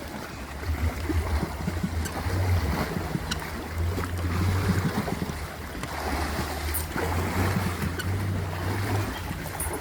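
Water sloshing and splashing as an elephant wades through it, with wind rumbling on the microphone.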